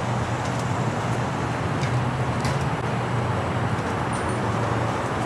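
Steady low background rumble and hiss of outdoor ambience, like road traffic, with a faint hum; two faint light clicks come about two seconds in.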